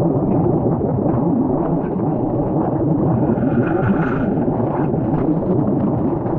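Loud, steady, muffled vehicle rumble, with faint steady tones rising over it about halfway through.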